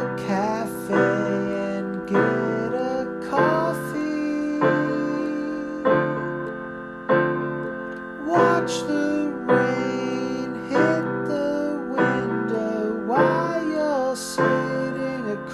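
Piano music: chords struck about once a second, with a gliding melody line over them.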